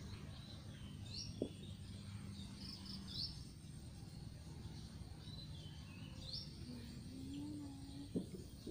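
Small birds chirping in short, high phrases, a few times over a steady low background rumble of outdoor ambience, with two brief knocks, one about a second and a half in and one near the end.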